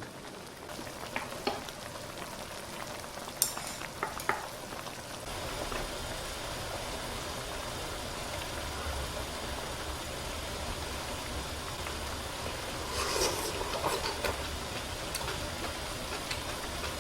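Pot of budae jjigae (spicy sausage stew) bubbling at a boil, a steady hiss of simmering that gets louder about five seconds in, with a few light clicks of utensils early on.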